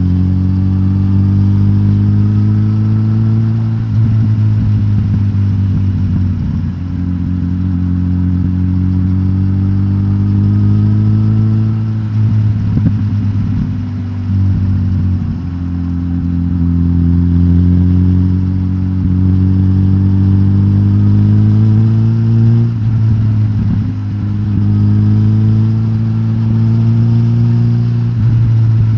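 Suzuki GSX-S1000GT's K5-derived inline-four engine, decatted with its stock exhaust, running under way: its pitch climbs slowly for a few seconds and then falls back, about six times over.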